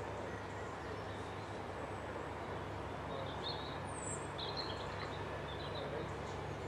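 A steady rush of hot-tub bubbling over a low pump hum, with a few short bird chirps a little past the middle.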